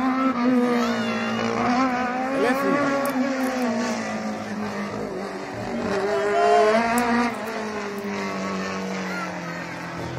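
Rally car engine revving up and down through gear changes as it drives the stage, the pitch climbing again about six seconds in, then settling lower toward the end.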